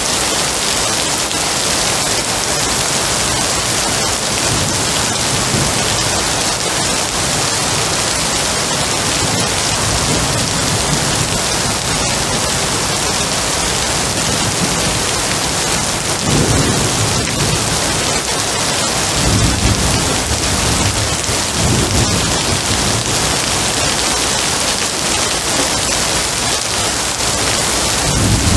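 Steady heavy rain falling, with low rolls of thunder rumbling in about halfway through and again near the end.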